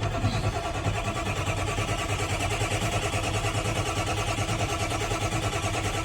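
Ford 7.3-litre diesel engine cranking over on the starter in the cold, an even rapid chugging rhythm, without catching.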